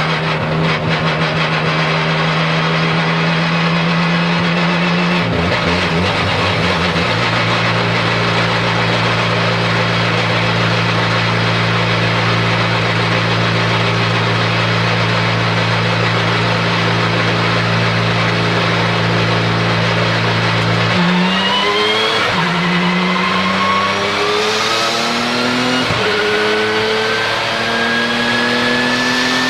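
Porsche 997 GT2 RSR's twin-turbo 3.9-litre flat-six heard onboard, running at a steady engine speed that drops to a lower steady pitch about six seconds in and holds for a long stretch. Then, about twenty seconds in, it accelerates hard, the note climbing through three quick upshifts, with a high turbo whistle rising with it.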